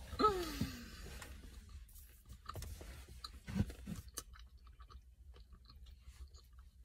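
Close-up chewing of a Snickers Almond chocolate bar: soft wet mouth sounds with small crunches and clicks. Near the start comes a short falling vocal sound from the eater.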